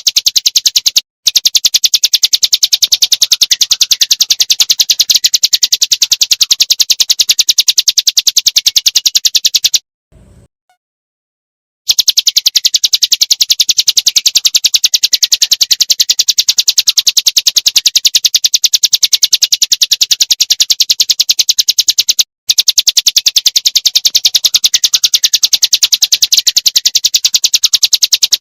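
Prinia (prinjak / ciblek gunung) calling in a fast, noisy, high-pitched rattle of evenly repeated ticks, played as a loop. It stops briefly about a second in, for about two seconds near the middle, and briefly again near the end.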